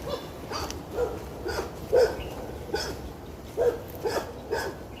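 Dogs barking repeatedly, short sharp barks about every half second.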